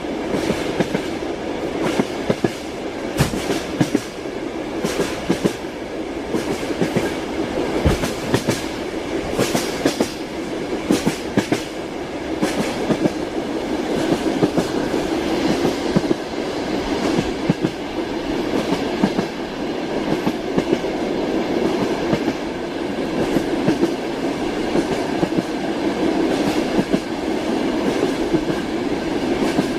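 Passenger train carriage running along the track: a steady rumble with the wheels clicking and knocking over rail joints at irregular intervals.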